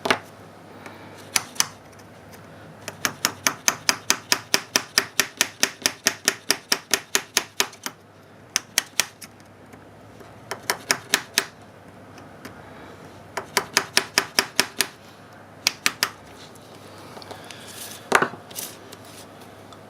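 Rapid sharp clicks or hard taps in runs, about four or five a second, with the longest run lasting about five seconds, then shorter runs and single clicks.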